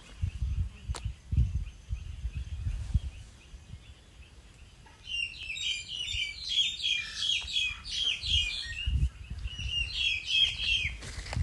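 Small birds chirping in a rapid, dense twitter that starts about halfway in and runs until just before the end. Irregular low thumps and rumbling sit underneath.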